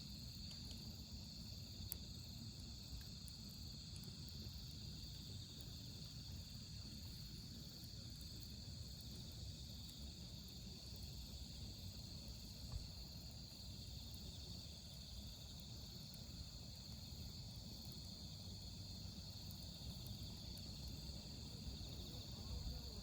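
Crickets singing steadily over a low, even rumble, with a few faint crackles from a wood fire.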